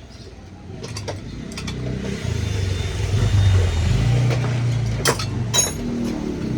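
An engine running, growing louder over the first couple of seconds and then holding steady, with a few sharp clicks over it.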